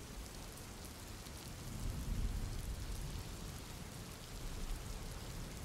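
Steady rain falling on pavement. A low rumble swells and fades about two seconds in.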